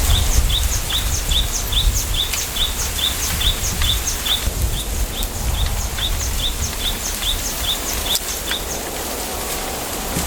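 A small bird repeating a short, high chirp about three to four times a second, the chirps weakening after about six seconds, over a low rumble of wind on the microphone in a bamboo grove.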